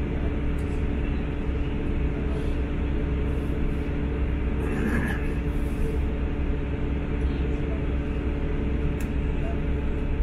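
Running noise of a British Rail Class 159 diesel multiple unit at speed, heard inside the passenger saloon: a steady low rumble of the underfloor diesel engine and the wheels on the rails, with a constant drone.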